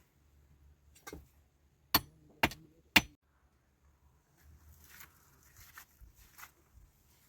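Three sharp knocks, evenly spaced about half a second apart, followed by faint rustling.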